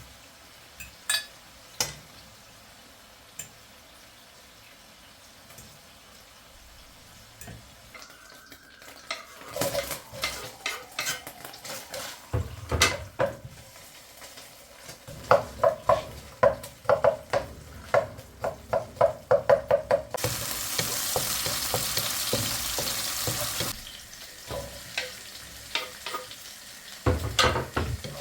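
A utensil clinking against a dish, first in scattered knocks and then in a fast, regular run of ringing clinks like stirring or whisking. About two-thirds of the way through comes a steady hiss lasting a few seconds, then more clinks.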